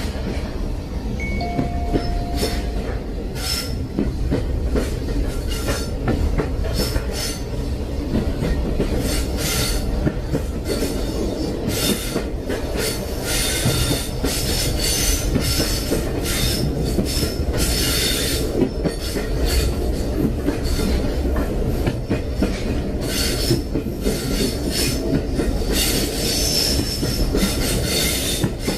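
Train running along the rails: a steady low rumble with irregular clattering and repeated high wheel squeals.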